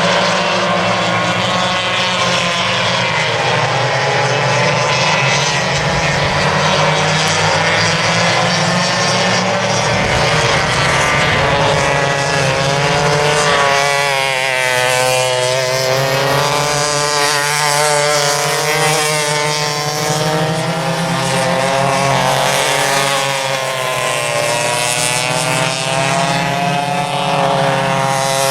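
Vintage racing go-kart engines running hard as a pack laps the track, their pitch rising and falling again and again as they accelerate and come off the throttle.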